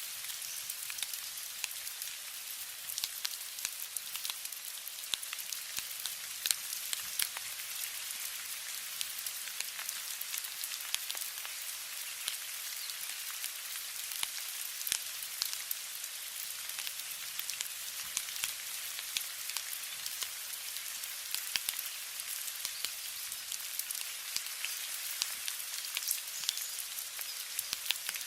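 Steady rain falling: an even hiss with many individual drops ticking sharply on a hard surface.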